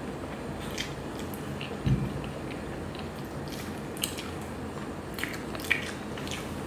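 A person chewing a mouthful of soft, sprinkle-topped donut, with scattered wet smacks and clicks of the mouth. A single low thump comes about two seconds in.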